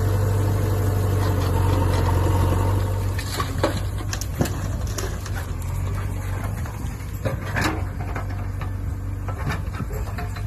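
Tractor's diesel engine running steadily, falling away about three seconds in, followed by scattered clicks and knocks.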